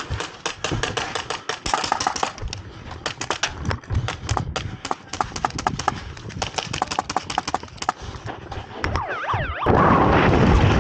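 Airsoft guns firing, a dense run of sharp clicking shots several a second, in volleys. About ten seconds in, a loud rushing noise comes in suddenly.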